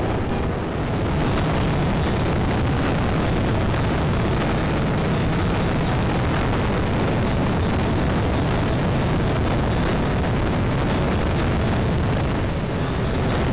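Wind buffeting the microphone of a camera on a moving Yamaha Tricity 155 scooter: a loud, steady rumble of rushing air and road noise, easing slightly about a second in and again near the end.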